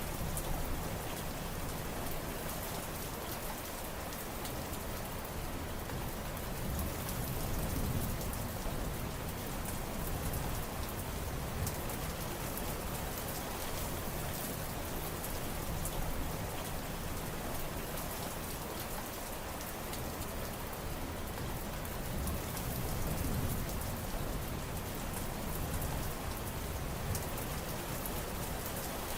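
Steady rain falling, an even wash of sound with many close individual drop hits throughout.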